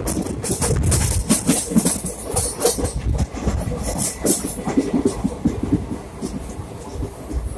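Passenger train running on the rails: a low rumble with irregular clattering knocks from the wheels and carriages, easing off and getting quieter near the end.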